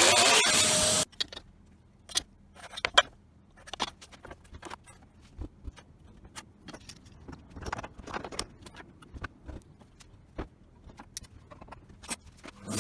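A power tool running loud, which cuts off abruptly about a second in. Then scattered light clicks, taps and metallic clinks of parts and tools being handled, one sharper knock about three seconds in, and a loud steady noise starting again at the very end.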